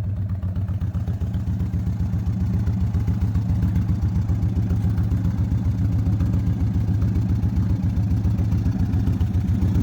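Motorcycle engine idling steadily, with a fast even low pulse.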